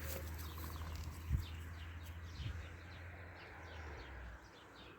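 Small birds chirping: repeated short, falling chirps. A low rumble on the microphone runs underneath and drops away about four seconds in, with a single soft thump a little over a second in.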